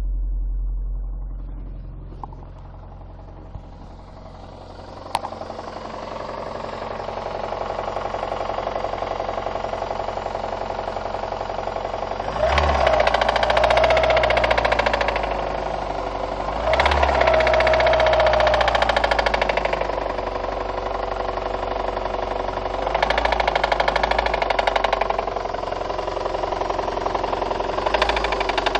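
VAZ-2114 inline four-cylinder petrol engine running with a rapid, hard knock, blipped up in revs four times. The knock comes from worn-through connecting-rod bearings on cylinders 2, 3 and 4, along with burnt valves.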